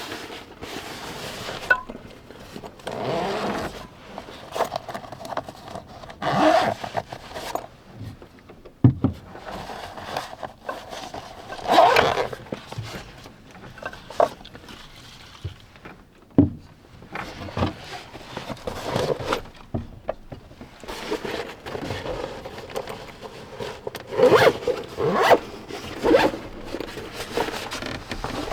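Gear being handled at close range: irregular rustling and scraping, with sharp clicks and knocks here and there and louder bursts of handling several times.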